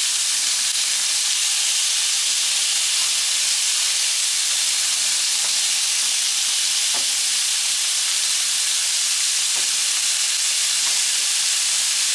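Chopped garlic frying in oil in a pan: a steady sizzle with a few faint pops as the garlic browns.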